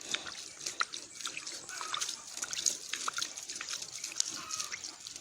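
Hands scooping and splashing water in a small hole dug in river sand, with irregular drips and splashes. The muddy water is being bailed out so that clean water seeps in.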